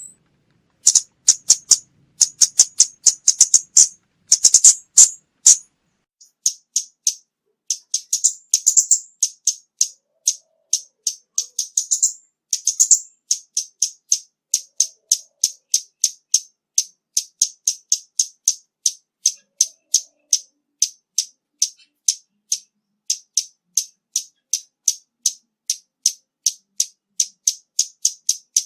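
Scarlet-backed flowerpecker giving sharp, high ticking call notes, in quick clusters over the first few seconds and then as an even series of about two to three a second. The recording has its low background noise filtered out.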